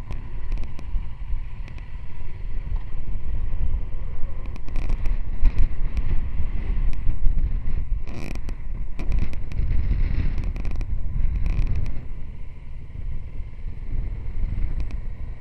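Wind buffeting the microphone in an uneven low rumble, with scattered light clicks and rustles and a short louder gust about eight seconds in.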